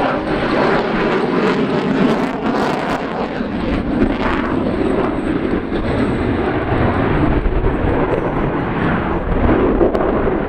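Loud, steady jet noise from an F-22 Raptor's twin Pratt & Whitney F119 turbofans as it flies its display, with a deeper low rumble building from about four seconds in.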